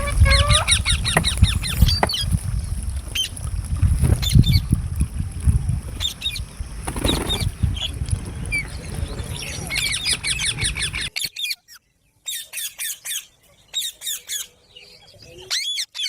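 Green parrots calling with rapid runs of short, shrill squawks and chirps, at first over a heavy low rumble. About eleven seconds in the rumble stops abruptly, and the parrots' sharp calls come in separate quick bursts.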